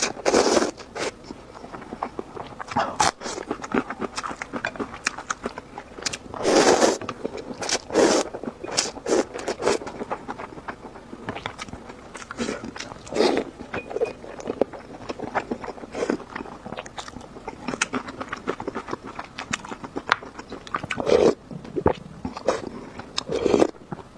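Close-miked eating of instant noodles: steady chewing and biting with many small wet clicks, and a few louder noisy bursts spaced several seconds apart.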